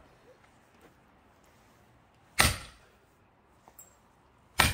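Sledgehammer blows striking the backs of axes wedged into a thick pine log to split it: two heavy blows about two seconds apart, the second near the end, each with a brief ringing tail.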